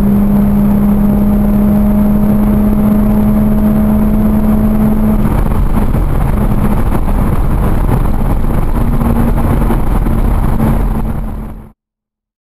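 Jaguar F-Type S's supercharged 3.0-litre V6 pulling hard and steadily in seventh gear at about 4,500 rpm and close to 200 km/h, heard inside the cabin over a dense rush of wind and road noise. Near the end the sound dies away and cuts off abruptly.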